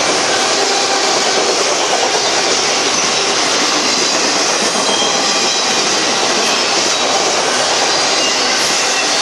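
Freight cars of a passing manifest train rolling by close at a steady speed: a loud, even noise of steel wheels running on the rails.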